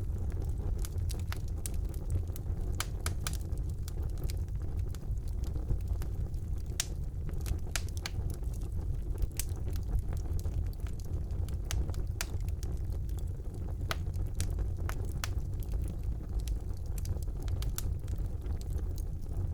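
Fire burning in a fireplace: a steady low rumble of the flames with frequent sharp, irregular crackles and pops.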